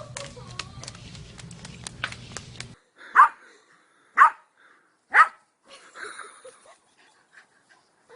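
A dog barking three times, loud short barks about a second apart, after a few seconds of other clip audio with clicks and a low hum that cuts off suddenly.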